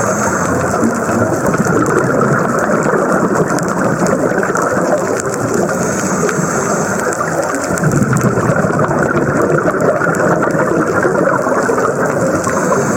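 Steady rushing and bubbling of scuba regulator breathing heard underwater, with a hissing breath at the start, about six seconds in and near the end, and a surge of exhaust bubbles at about eight seconds.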